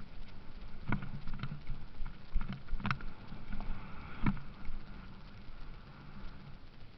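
Motocross bikes' engines running at a distance as a faint steady drone, with irregular sharp knocks and clicks close to the microphone.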